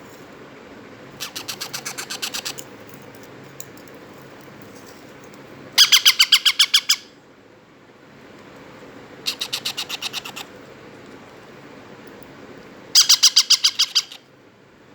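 Three-week-old Indian ringneck parrot chicks calling in four bursts of rapid, evenly pulsed chatter, each about a second long; the second and last bursts are the loudest.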